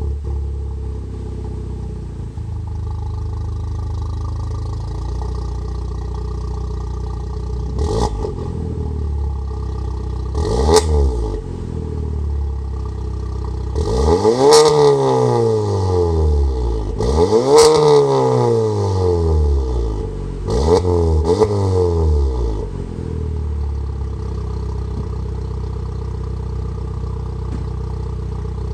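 VW Golf Alltrack engine exhausting through an APR downpipe and a Milltek non-resonated exhaust, idling steadily and revved in place. There are single throttle blips, then two longer revs that rise and fall (up to about 4,500 rpm at most), then a quick double blip, before it settles back to idle.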